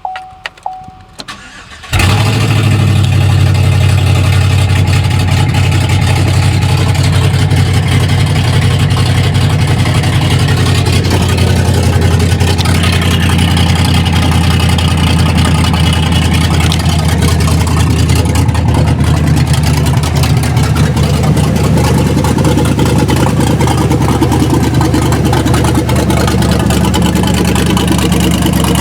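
A Chevrolet 6.0 L L96 Vortec V8 starts about two seconds in, after a couple of short beeps, and then idles steadily.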